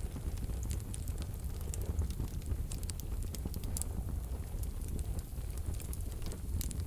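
Wood fire burning in a wood-burning stove: a low, steady rumble of the flames with soft, irregular crackles and pops throughout.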